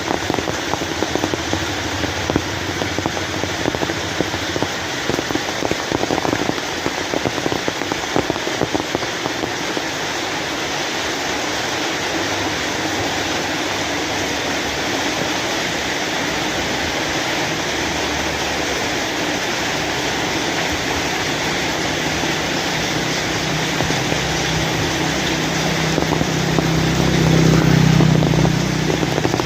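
Steady rain falling. A low hum swells near the end, loudest a couple of seconds before the close, then eases.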